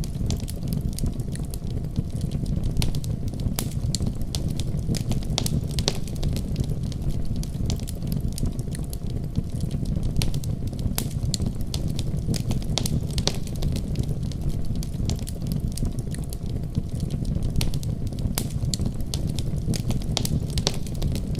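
Wood fire crackling with frequent sharp pops and snaps, over the steady deep rumble of a snowstorm outside.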